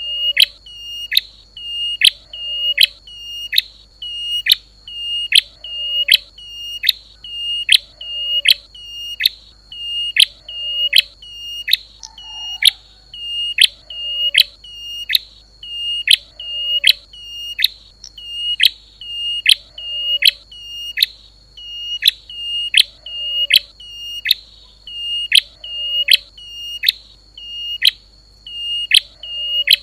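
A songbird's high, whistled call repeated evenly about once a second: each call is a sharp downward sweep onto a short, steady note. This is a masteran recording used to teach pet songbirds new song.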